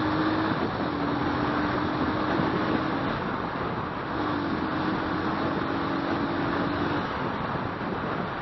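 Motorcycle riding in city traffic: a steady engine note over a constant rush of wind and road noise, the note breaking off briefly about half a second in and again around three seconds in.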